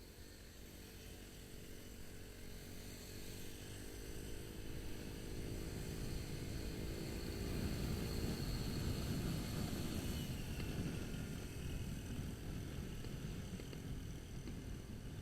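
Motor vehicle engine noise in traffic, swelling steadily over about eight seconds and then slowly fading.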